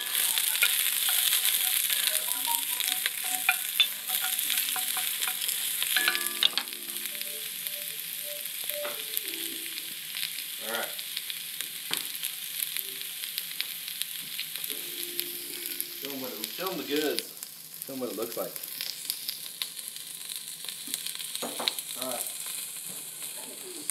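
Sliced onions and jalapeños sizzling as they sauté in an enamelled cast-iron Dutch oven, louder for the first several seconds, with occasional short knocks and scrapes from the vegetables being stirred.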